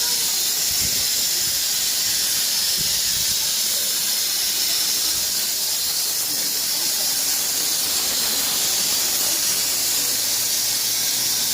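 Steam locomotive, a JNR Class C11 tank engine dressed as Thomas, venting steam in a steady, high hiss that holds even throughout.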